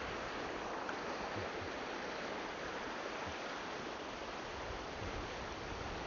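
Shallow, fast-flowing glacial river rushing steadily over rocks.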